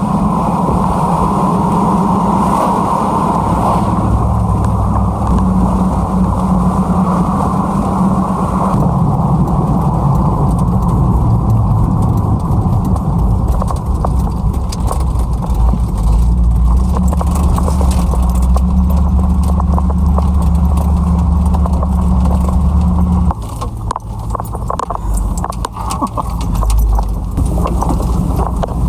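Pickup truck driving, its engine and road noise heard from inside the cab as a steady low drone that shifts in pitch several times and drops a little near the end.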